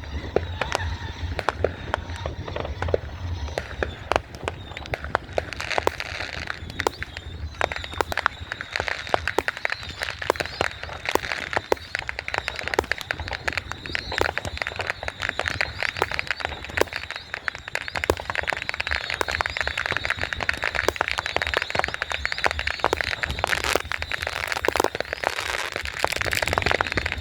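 Fireworks going off in a dense, continuous volley of sharp pops, bangs and crackling, with no break.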